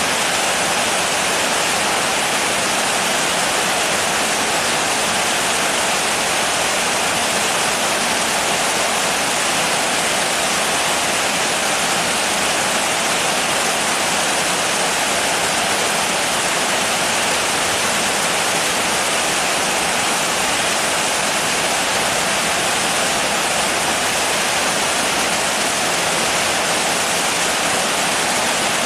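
Steady rainfall, a dense even hiss with no single drops or other events standing out.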